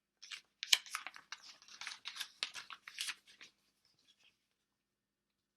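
Paper rustling and crinkling in a quick run of short scrapes, as a book page is handled and turned, dying away after about three and a half seconds.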